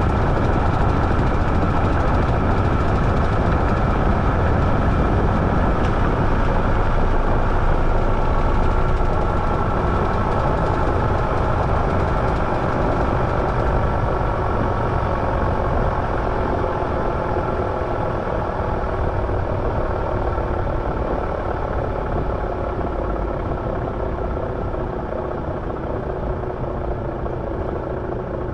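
Washing machine running, a steady whirring hum with faint whining tones that slowly fall in pitch as it gets gradually quieter, like the drum slowing from a spin.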